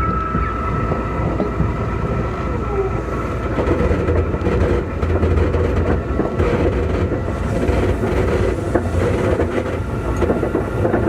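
Keikyu 2000 series electric train running, heard from inside car DeHa 2052: a steady wheel-and-rail rumble with scattered clicks from the track.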